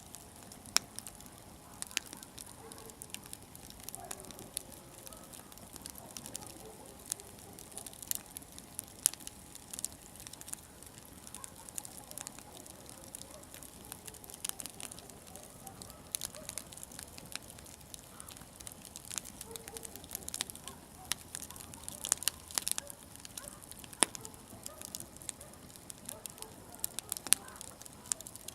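Wood campfire crackling: irregular sharp pops and snaps over a faint hiss of burning.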